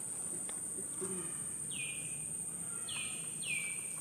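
A bird calling three times, each call a short falling whistle: once a little before halfway, then twice close together near the end. A steady high-pitched buzz runs underneath.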